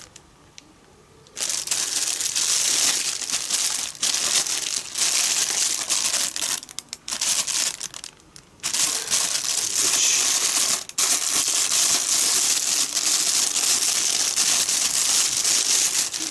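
Loud crinkling and rustling, as of wrapping being handled, in long stretches broken by a few short pauses.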